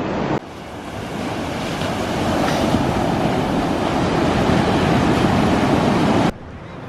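Ocean surf washing on the beach, with wind on the microphone: a loud, even rush that starts abruptly about half a second in, swells over the next couple of seconds and cuts off suddenly near the end.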